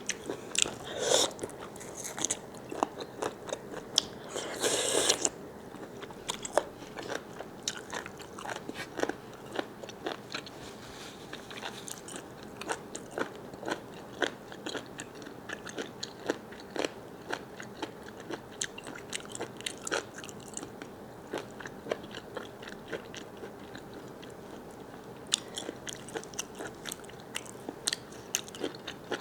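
A person eating large squid close to the microphone: crunchy bites and wet chewing with many short clicks and smacks. The bites come thickest in the first five seconds and again near the end.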